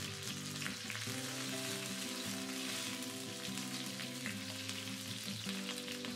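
Curry leaves sizzling in hot coconut oil in a frying pan, stirred with a spatula about halfway through. Background music plays under the steady sizzle.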